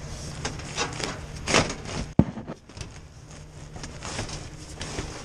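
Scattered knocks, rubs and rustles of things being handled, with one sharp bang a little past two seconds in, over a steady low hum.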